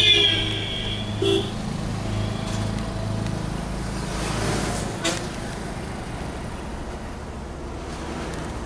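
A vehicle horn sounds at the very start, fading, and gives a short toot about a second later. Under the horn is the steady low running of a heavy truck's engine, with traffic noise.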